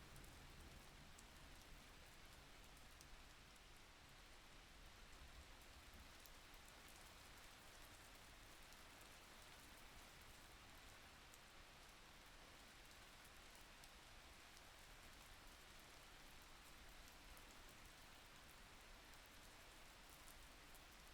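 Faint, steady rain: an even hiss with light scattered patter of drops.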